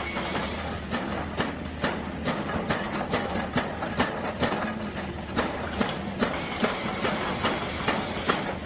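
Excavator-mounted hydraulic rock breaker hammering, with sharp blows repeating evenly at a little over two a second over the excavator's steady engine hum.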